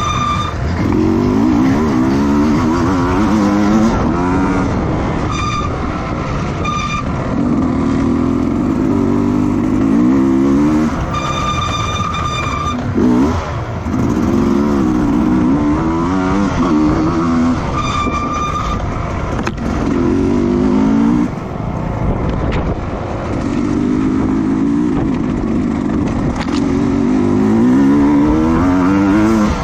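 Racing engines accelerating hard through the gears, their pitch climbing in short runs and dropping back at each shift, over and over. A high whine comes and goes.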